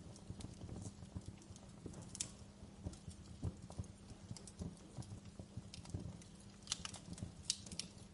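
Wood fire in a fireplace crackling: irregular pops and snaps over a low rumble of the flames, with a few sharper, louder snaps about two seconds in and again in the last second and a half.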